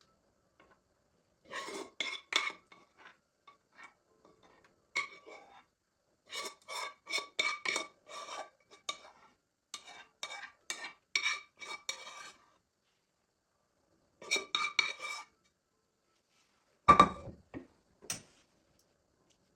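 A metal utensil clinking and scraping against a dish in bouts of quick strokes, as in stirring or mixing, each stroke ringing at the same pitch. A heavier knock with a dull thud comes near the end.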